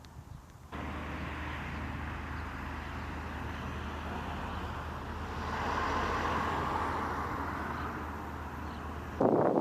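A vehicle engine running steadily with a constant low hum, starting abruptly a moment in. A swell of higher noise comes around the middle, and the sound cuts off sharply near the end.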